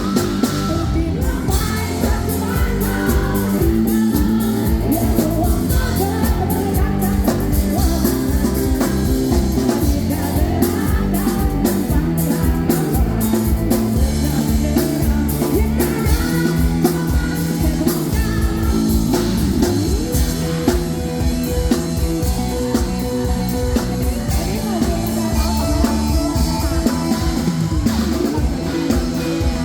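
Band playing a rock song with a singer, over drum kit and guitar at a steady beat.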